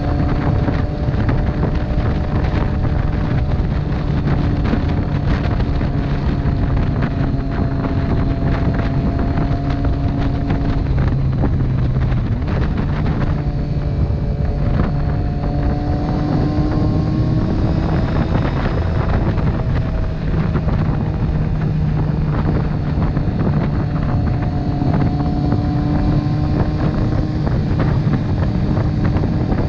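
Motorcycle engine running under way, its pitch mostly steady, with heavy wind noise rushing over the microphone. The engine note breaks off about eleven seconds in and then picks up again a little higher, as with a gear change or a change of throttle.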